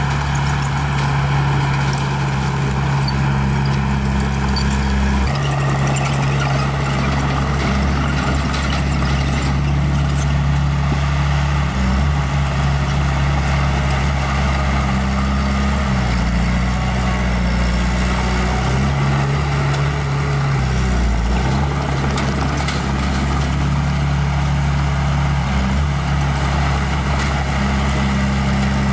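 Small bulldozer's diesel engine running continuously, its low drone stepping up and down in pitch a few times as the load and throttle change.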